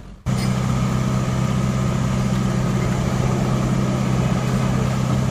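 Heavy diesel engine of construction machinery running steadily, a low even drone that cuts in abruptly just after a brief dropout.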